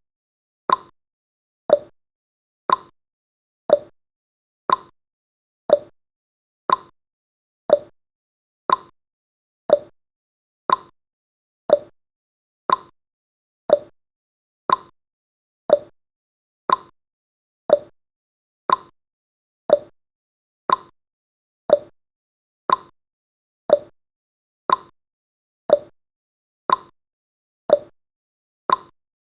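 Countdown timer tick sound effect: a short, pitched tick repeating evenly once every second.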